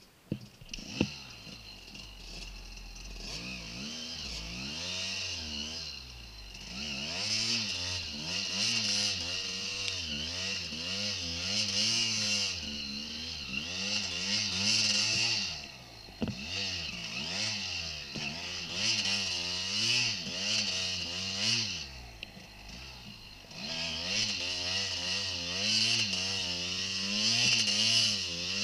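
Dirt bike engine running under load through snow, its pitch rising and falling about once a second as the throttle is worked. A sharp knock about a second in, and the engine drops back briefly twice, about halfway through and again near three-quarters of the way.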